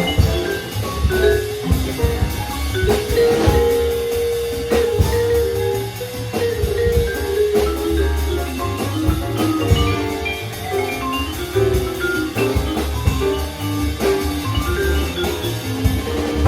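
Jazz quintet playing a swing tune, with vibraphone notes over upright bass, piano and drum kit.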